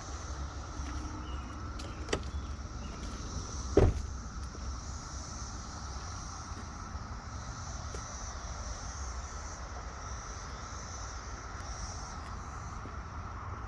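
Chorus of Brood X periodical cicadas droning steadily, over a low rumble. A click about two seconds in, then a sharp knock near four seconds, the loudest sound.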